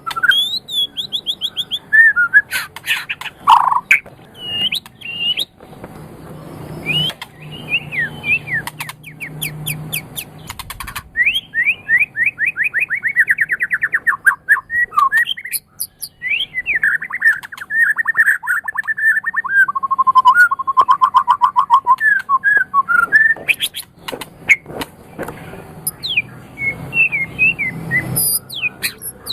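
White-rumped shama (murai batu) singing a long, varied song of fast trills, gliding whistles and quick runs of repeated notes, with short pauses between phrases.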